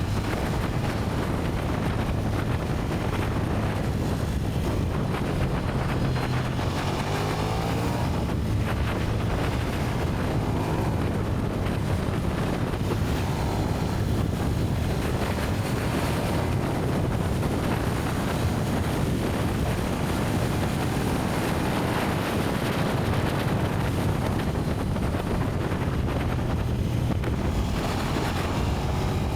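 KTM 1290 Super Duke R's V-twin engine through its stock exhaust, running under way while riding, its pitch sliding up and down a few times as the revs change. Wind noise buffets the microphone.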